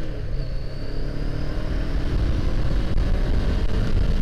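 Honda CBR500R's parallel-twin engine accelerating, its pitch climbing, dropping back at a gear change right at the start and climbing again. Over the next couple of seconds rising wind rumble on the microphone covers the engine.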